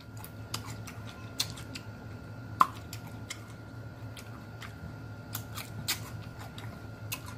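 Close-miked mouth sounds of chewing: irregular wet smacks and clicks of lips and tongue, one sharper click about two and a half seconds in, over a faint steady hum.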